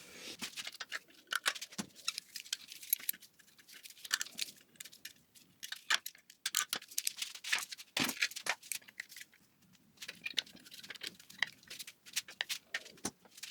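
Small metal parts of a drum-brake assembly being handled by hand: irregular light clicking and rattling, with a few sharper knocks along the way.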